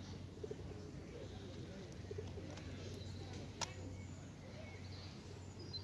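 Birds calling: low, repeated calls in the first few seconds, with a few faint higher chirps, and one sharp click about three and a half seconds in.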